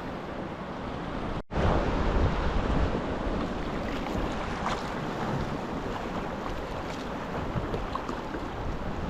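Wind buffeting the microphone over the sound of sea waves and water around a kayak, a steady rumbling hiss. The sound cuts out for an instant about a second and a half in, then comes back louder.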